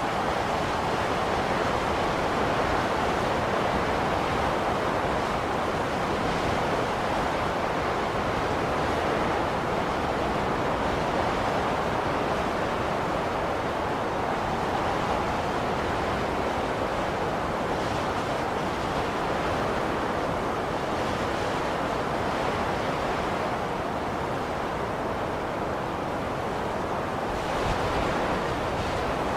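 Blizzard wind blowing steadily as a dense rushing noise, with one gust swelling briefly near the end.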